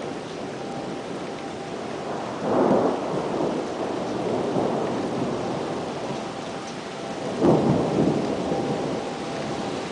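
Thunderstorm: steady rain with rolling thunder, swelling louder twice, about two and a half seconds in and again about seven and a half seconds in.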